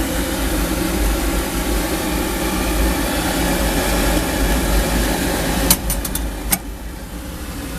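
Oil furnace burner running steadily: an even rushing noise over a low rumble. A few sharp clicks come near the end, after which the rushing is a little softer.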